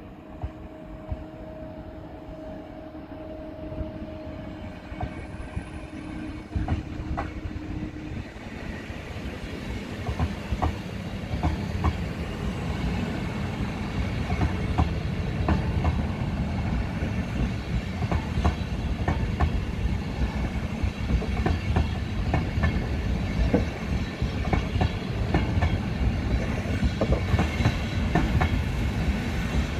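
DB Intercity train of passenger coaches rolling past, wheels clicking irregularly over the rail joints, growing louder as the coaches come closer. A steady tone sounds for the first eight seconds or so, then stops.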